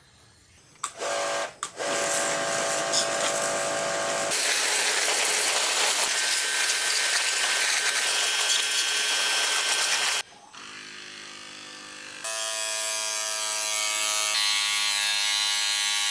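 Small electric power tool running in several separate bursts: a high steady motor whine, then a harsh even hiss lasting about six seconds, then the whine again, quieter at first and then louder.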